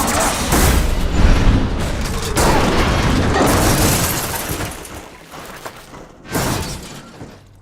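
Film crash sound effects: heavy impacts and shattering debris over the score, loud for about four seconds and then dying away, with one more sharp hit about six seconds in.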